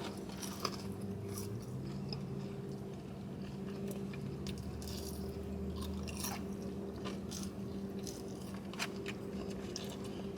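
A person biting and chewing food close to the microphone, with scattered small crunches and clicks, over a steady low hum.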